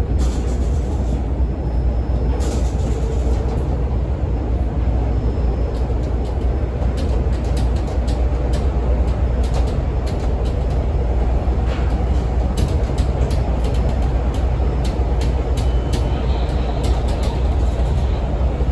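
A CTA 5000-series rapid transit car rolling along the elevated tracks, heard from inside: a steady heavy low rumble. Through the middle and latter part of the run come many sharp clicks and rattles.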